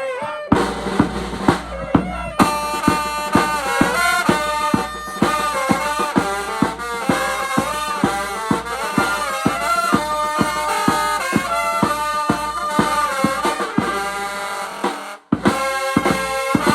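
Vietnamese funeral band music: a reedy wind instrument plays a wavering melody over a steady drum beat. The music breaks off for a moment near the end, then starts again.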